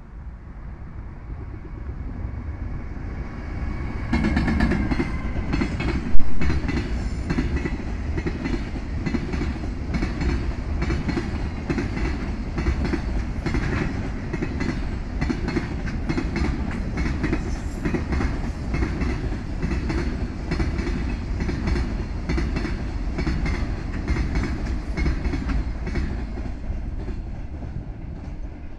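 Container freight train hauled by an EF210 electric locomotive passing: it draws near, then the wagons go by with a steady rapid clickety-clack of wheels over rail joints, fading near the end as the train moves away. A brief loud bang about six seconds in is the loudest moment.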